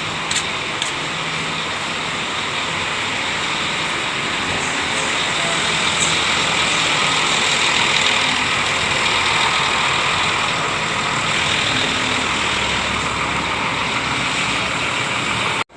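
Scania K410IB coach running at idle as a steady, even engine noise that swells slightly around the middle, then cuts off abruptly at the very end.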